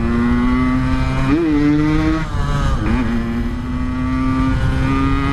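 Yamaha RX-King's two-stroke single-cylinder engine running at a steady pitch, with two quick blips of the throttle, about one and three seconds in.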